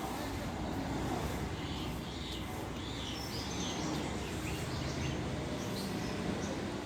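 Birds chirping: short, repeated calls scattered throughout, over a steady low rumble of background noise.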